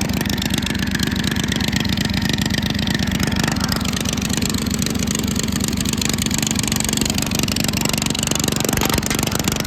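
Sears Custom 8 garden tractor engine running steadily at idle with a rapid even beat, after several months sitting.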